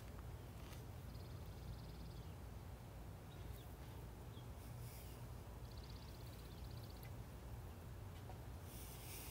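Quiet garden ambience: a low steady rumble with two short, evenly pulsed bird trills, one about a second in and another past the middle, and a few faint chirps.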